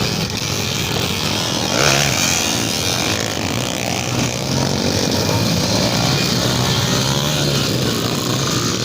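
Trail motorcycle (dirt bike) engine running, loudest about two seconds in.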